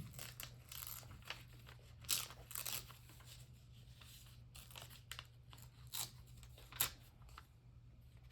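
Magazine paper rustling and crinkling in scattered short bursts as cutouts are handled, over a faint steady low hum.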